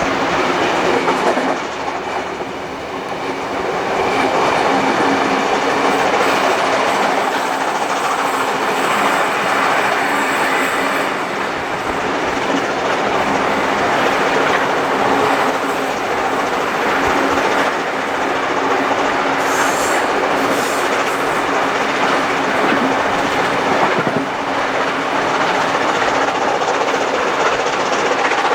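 Passenger train hauled by steam locomotive 3801 running along the track, with steady rolling wheel-on-rail noise and clickety-clack. It dips briefly in loudness about two seconds in.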